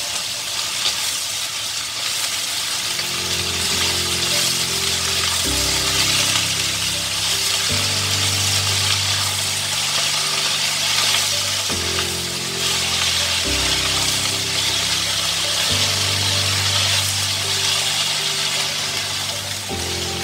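Chopped vegetables sizzling steadily in a hot wok as they are stirred and turned with a wooden spatula. Soft background music with held low chords that change every couple of seconds plays underneath.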